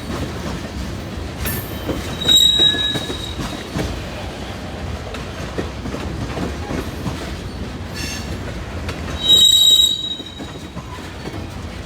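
BNSF freight train's cars rolling past in a steady rumble and rattle of wheels on rail. High-pitched wheel squeals break through twice, loudest about two and a half seconds in and again near the end, with a fainter one just before the second.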